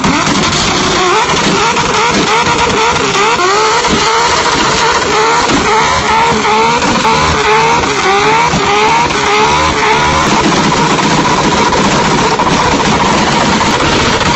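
Toyota Supra MK4's turbocharged straight-six revved hard in quick repeated rises and falls, about two a second, then held at a steady high rev from about ten seconds in.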